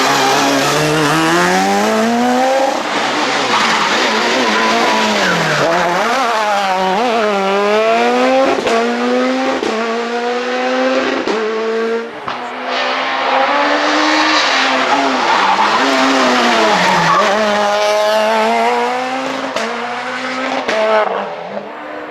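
Super 2000 rally car's naturally aspirated two-litre four-cylinder engine at racing revs, its pitch climbing and dropping again and again through the gears and corners. Abrupt cuts come at several gear changes around the middle.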